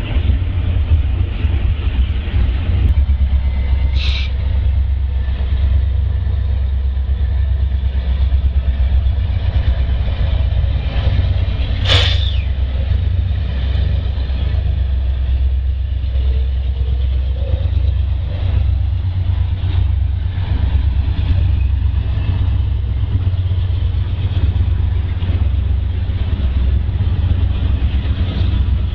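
Freight train rolling past behind BNSF diesel locomotives: a steady low rumble of engines and rolling cars. Two brief, sharp, high-pitched sounds stand out, one about 4 seconds in and a louder one about 12 seconds in.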